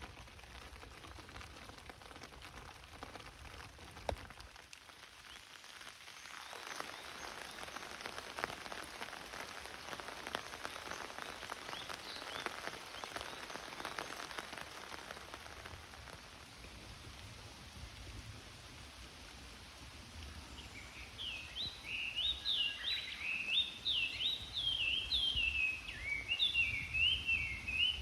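Steady rain falling through forest foliage, with a spell of heavier dripping in the first half. In the last seven seconds a bird sings a fast run of rising-and-falling notes, the loudest sound.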